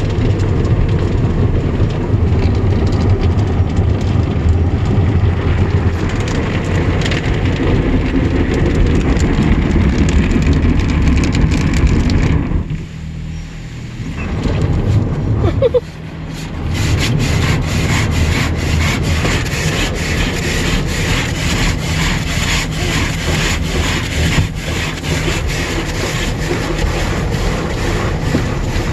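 Automatic car wash heard from inside the car: brushes scrubbing the body with water drumming on it, like rain falling really hard. It dips quieter for a few seconds midway, then returns as a fast, dense pattering.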